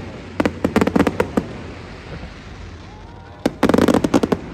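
Fireworks going off: a quick run of sharp bangs about half a second to a second and a half in, then a dense rattle of cracks near the end.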